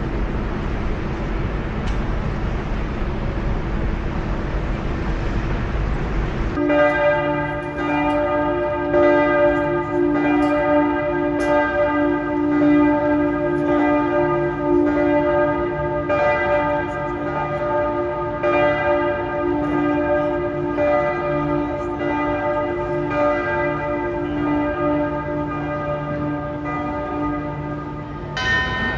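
A steady noisy rumble, then from about six and a half seconds in, the bells of the Neues Rathaus Glockenspiel in Munich ring out. Many tuned bells are struck in turn and ring on together, stopping shortly before the end.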